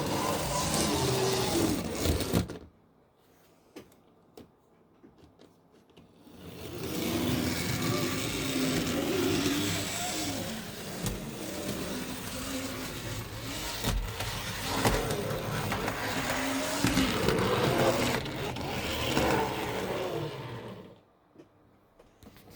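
Tri-ang OO-gauge model train running along the track, its motor and wheels giving a wavering whir; it stops for about three and a half seconds and then runs again until near the end.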